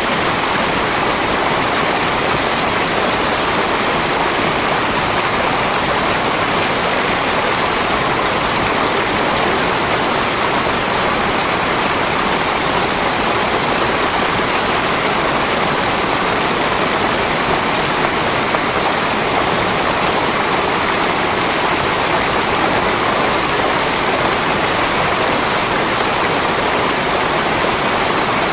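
Steady rushing water, an even unbroken flow with no separate splashes or drops.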